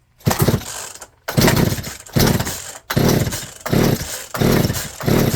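Poulan P3416 34cc two-stroke chainsaw being pull-started: about seven quick pulls of the recoil starter cord, each cranking the engine briefly, without it catching and running. The carburetor is a new Hipa replacement whose low and high mixture screws have just been backed out.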